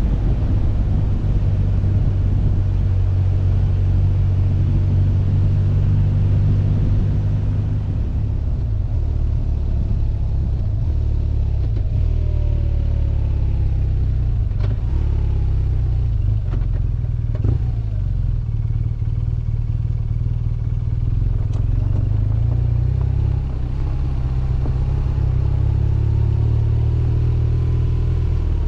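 BMW R1200GS boxer-twin engine running under way, heard from the bike, a steady low drone with a few rises and falls in pitch around the middle.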